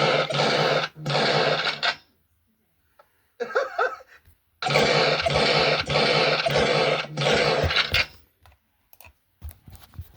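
A harsh, noisy sound effect cut into repeated chunks with a steady low hum under it. It comes as two bursts of about a second each, then a short squeaky patch, then a longer stretch repeating the same piece several times. It stops a little before the end.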